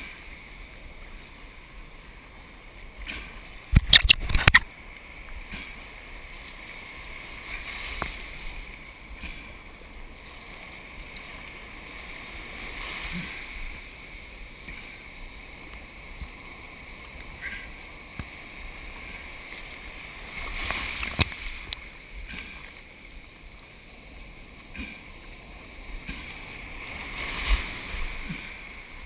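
Water and surf washing around a surf kayak, as a steady rushing noise with a few swells. About four seconds in comes a brief cluster of loud knocks.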